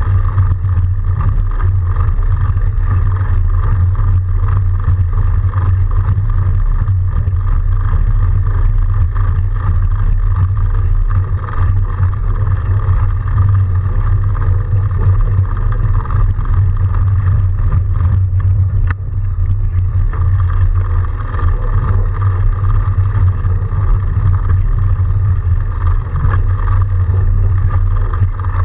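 Steady riding noise from a fat bike rolling through snow: a constant low rumble with a hum above it, holding level with only small dips.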